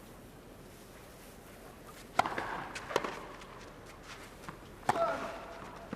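Tennis rally on a clay court: three racket strikes on the ball, about two seconds in, a second later and near the end, with a player's short grunt after the first and last strikes.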